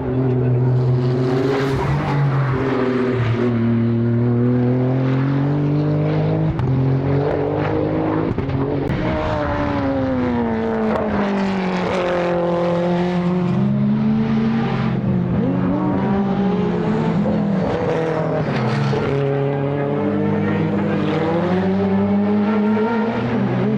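Race car engine running hard on track, its note climbing and falling several times as it accelerates and slows through the gears.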